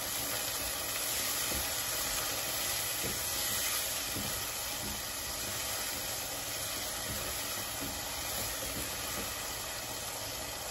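Onions and ground spices sizzling steadily in hot oil in a pan as the masala is fried down, with a silicone spatula stirring through it.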